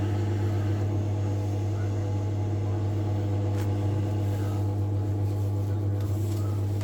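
Potterton Gold combi boiler running on a central heating demand: a steady low hum.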